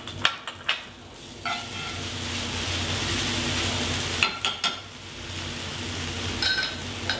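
Forbidden rice and farro frying in duck fat in a cast iron skillet. The sizzle builds after about a second as a spoon stirs, with sharp clicks of the spoon against the pan at the start and again around four seconds in.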